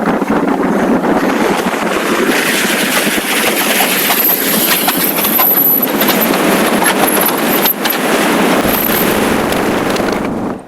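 Steady loud rushing of wind and road noise on the microphone while riding a motorcycle, cutting off suddenly near the end.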